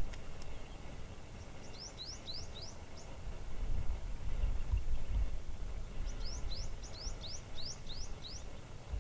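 A small bird calling in two quick runs of short, high chirps, a few seconds apart, over a steady low rumble.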